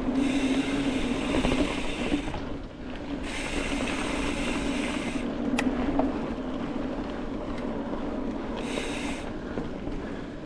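Mountain bike rolling down a dirt trail, its tyres and drivetrain rattling, with the rear hub's freewheel buzzing in spells while the rider coasts; the buzz stops for a while about two seconds in and again midway, when the rider pedals.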